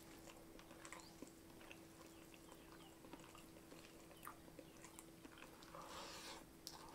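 Faint mouth sounds of a person chewing a mouthful of rice and jengkol stew, with small wet clicks and fingers working the rice. About six seconds in a handful of rice goes into the mouth with a louder wet smack, over a faint steady hum.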